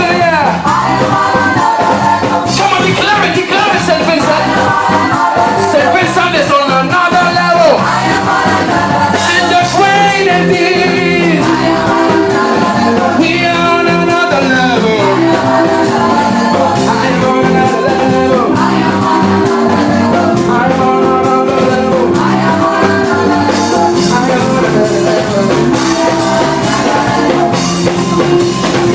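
Live gospel band music with a singer's voice over it and a steady beat.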